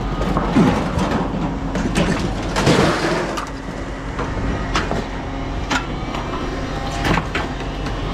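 Scrap metal being handled: a run of sharp clanks and knocks with scraping, over a steady low hum.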